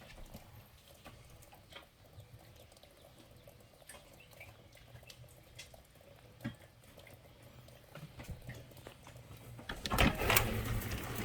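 Light rain: sparse faint taps of raindrops, with a sudden louder rush of noise about ten seconds in.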